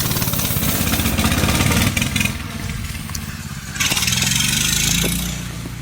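Minibike's small engine running and revving, speeding up over the first two seconds, with a rush of hiss about four seconds in, then growing quieter as the bike moves off.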